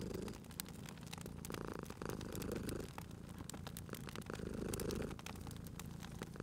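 A domestic cat purring, the purr swelling and fading with each breath, over a wood fire crackling with frequent sharp pops.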